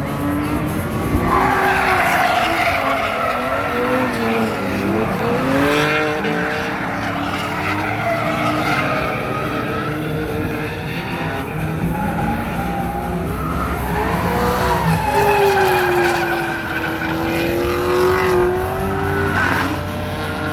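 Drift cars on track: engines revving hard, their pitch rising and falling repeatedly, with tires squealing through the slides.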